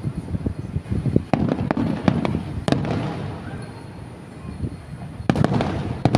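Aerial fireworks bursting in quick series of sharp bangs over a continuous rumbling crackle. The bangs ease off briefly past the middle, then a fresh cluster of bangs comes near the end.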